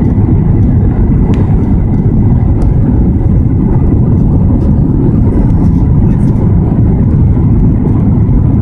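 Airbus A320 cabin noise: a loud, steady rush of engine and airflow noise, deepest in the low end, with faint steady tones above it.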